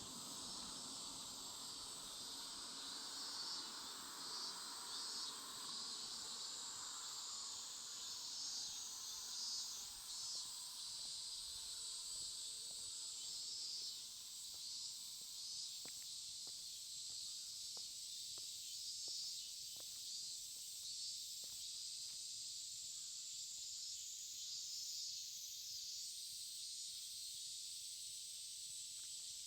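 Steady, high-pitched chorus of summer insects trilling. In the first few seconds a passing vehicle's sound fades away, and a few faint ticks come through later.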